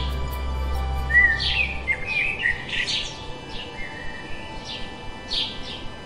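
Birds chirping and warbling in short, repeated calls over soft, sustained background music; a low hum under it stops about two seconds in.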